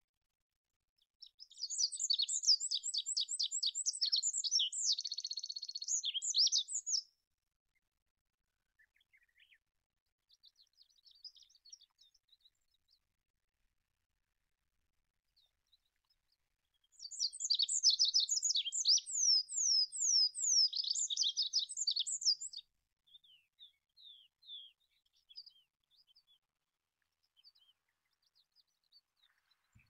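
Olive-backed pipit singing: two long songs of rapid, high, thin notes and trills, the first starting about a second in and lasting some six seconds, the second starting a little past halfway and lasting about five seconds, with faint scattered notes between them.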